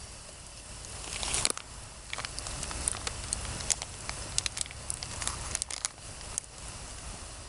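Open wood campfire crackling, with sharp, irregular pops of burning wood.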